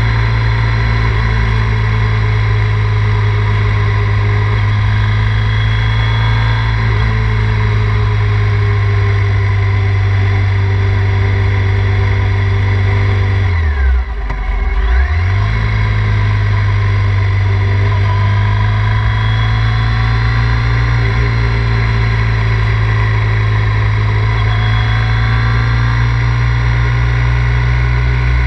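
Triumph Thruxton 900's air-cooled parallel-twin engine running steadily at cruising pitch. About halfway through, its note drops sharply and climbs back once.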